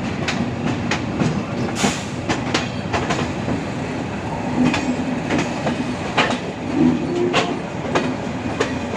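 Passenger train running, with a steady rumble and irregularly spaced sharp clicks of the wheels over rail joints and points.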